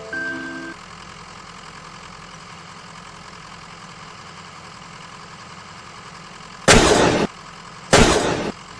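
A faint steady hum, then two loud crashes about a second apart near the end as a plastic toy truck loaded with a toy auto-rickshaw topples over on a toy bridge.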